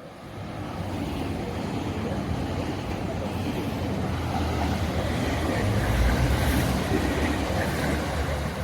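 A train passing close by on the line, a low rumble with running noise that builds up, is loudest about six seconds in, then eases slightly.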